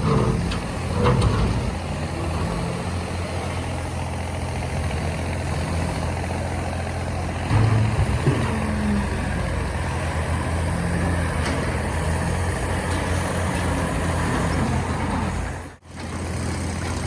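Bulldozer's diesel engine running steadily with a low drone, louder for a moment about eight seconds in. The sound cuts out briefly near the end.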